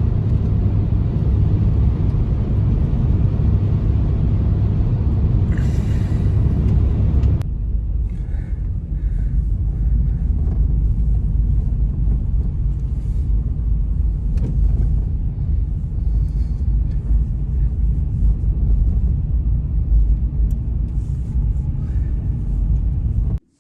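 Strong blizzard wind blowing in a steady low rumble. About seven seconds in it changes abruptly to a slightly quieter stretch with faint small clicks, and it cuts off suddenly near the end.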